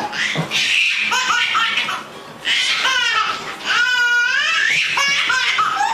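High-pitched squealing laughter in several bouts, like a small child's giggles, with a short pause about two seconds in.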